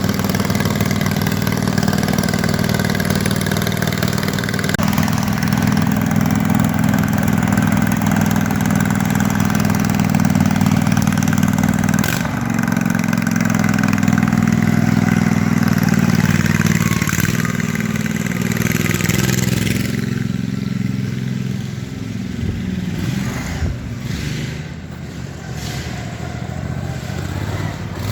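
Small engine of a modified racing lawnmower running steadily with shifts in pitch as it revs, turning quieter and more uneven in roughly the last eight seconds.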